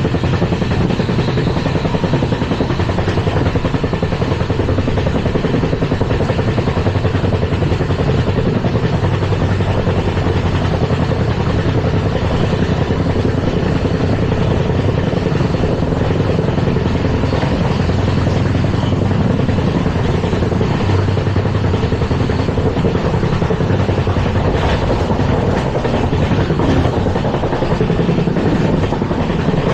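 LHB passenger coaches running on the track: a steady, loud rumble of wheels on the rails with a low hum underneath.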